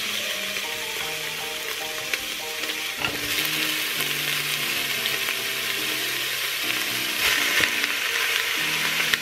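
Diced onions and raw beef cubes sizzling in the hot bowl of a Cookeo multicooker as the meat goes in. The sizzle grows louder about three seconds in and again near seven seconds, with a few light knocks.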